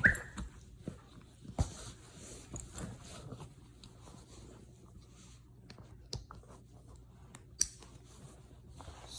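Quiet rustling and handling noises with a few sharp clicks, as a tight-fitting dog garment is pulled on and adjusted on a dog.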